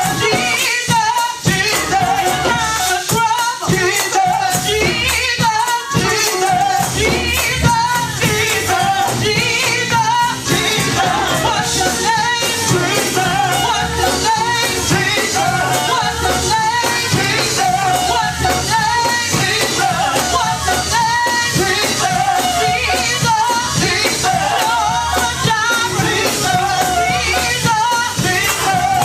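Live gospel praise music: voices singing a short repeated phrase over a fast, steady percussion beat and a band, loud and continuous throughout.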